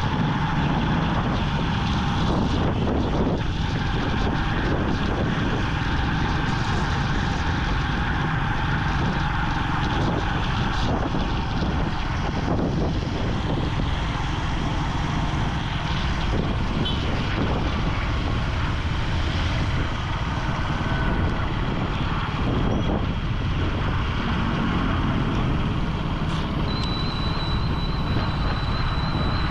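Vintage Yamaha motorcycle engine running steadily under way, mixed with wind and road noise. A thin high tone comes in near the end.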